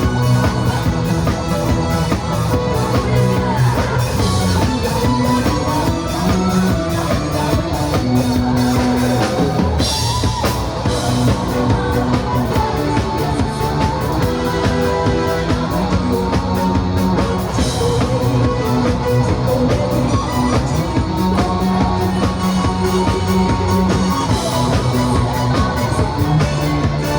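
Band music in a rock style: drum kit and electric guitar playing a steady beat under a held melody line.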